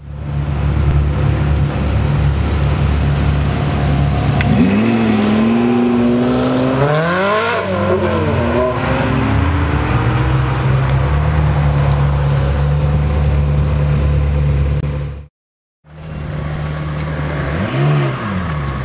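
Ferrari 360 V8 engines: a steady engine drone, with one car revving up, its pitch climbing and then falling away about seven seconds in. After a brief gap, another engine blips once near the end.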